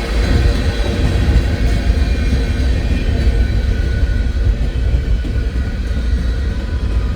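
Freight train running by with a steady low rumble.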